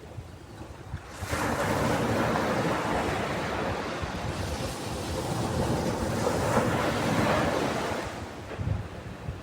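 Ocean wave surging up the shore: a low rumble, then a broad wash that rises about a second in, holds, and eases off near the end.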